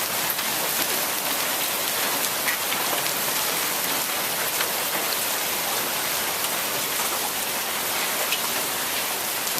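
Moderately heavy rain falling with a steady fall of small hail, BB- to marble-sized, in an even, unbroken hiss with little wind.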